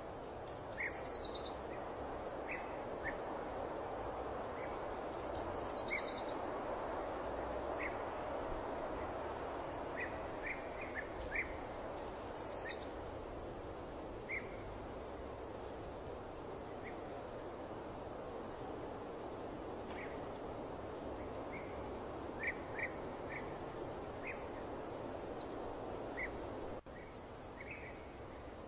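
Nature ambience of birds chirping, with a few quick calls that fall in pitch, over a steady rushing noise. Near the end the sound briefly drops out.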